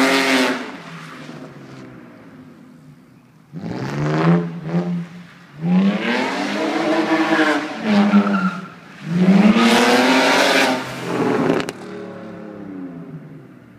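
BMW E46 325i's inline-six revving hard in three spells that rise and fall in pitch, with tyre squeal as the car is drifted. In between and near the end the engine drops back to a fainter drone.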